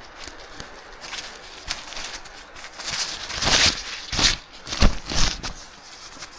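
Rustling and handling noise with a few dull thumps, bunched between about three and five seconds in, over a light steady background hiss.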